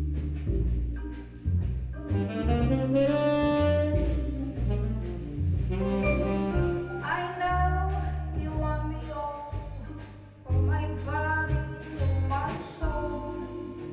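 Live band playing a jazzy song, with a bass line under a gliding melodic lead line.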